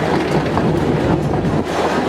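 Narrow-gauge park railway train running, heard from aboard, with its wheels clicking over the rail joints.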